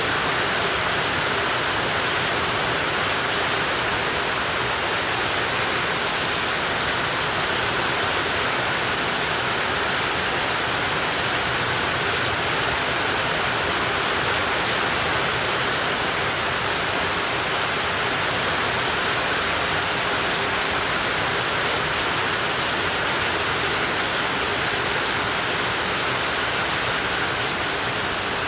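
Heavy tropical rain falling steadily, an even, unbroken hiss with no individual drops standing out.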